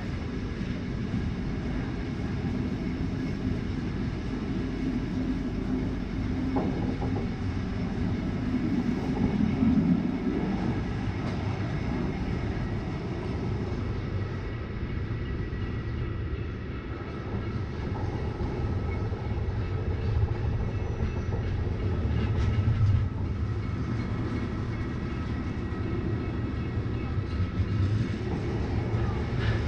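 RhB ABe 8/12 'Allegra' electric train running on metre-gauge track: a steady rumble of wheels on rails, with a few sharp clicks from the track.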